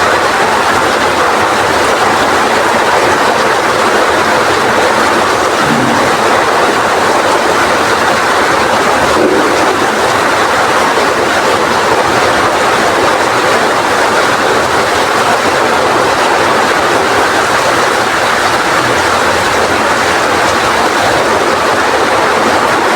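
Rain pouring down in strong wind: a loud, steady, dense hiss.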